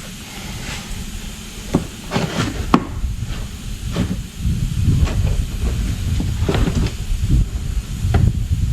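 Irregular clicks and knocks of hand tools working on bolts and fittings of an old Johnson outboard motor, a dozen or so at uneven spacing, over a steady low rumble.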